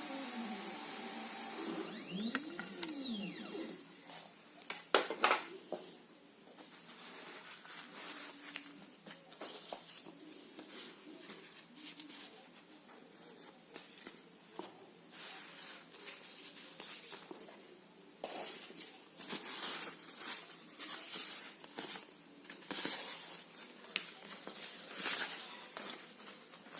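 A NikEll CNC cutting machine working through fabric, its stepper motors whining in short moves. In a couple of early moves the pitch sweeps up and back down, then many quick stop-start moves follow, busiest near the end.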